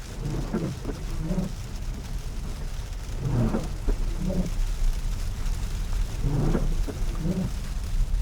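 Tesla windshield wipers sweeping across the glass: a pair of swishes, out and back, about every three seconds, over a steady low rumble inside the car's cabin.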